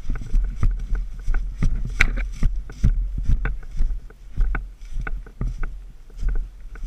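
Handling and movement noise on a body-worn camera: a string of thumps and clicks, about two or three a second, over a low rumble.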